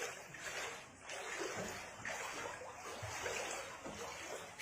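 Floodwater splashing and rushing, rising and falling in uneven surges about once a second.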